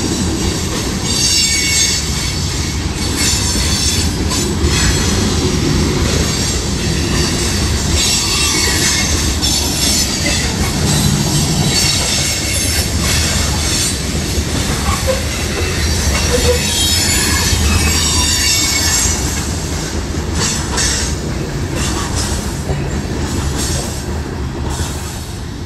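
CSX freight train's covered hopper cars rolling past close by: a steady rumble of steel wheels on the rails, with repeated high-pitched wheel squeal and clicks over the rail joints. It eases off a little near the end.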